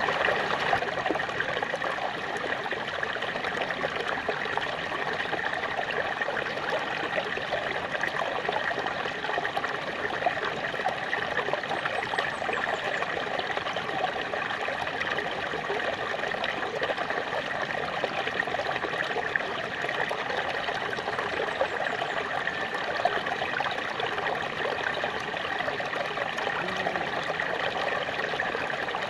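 Small waterfall splashing and trickling steadily, a continuous even rush of falling water.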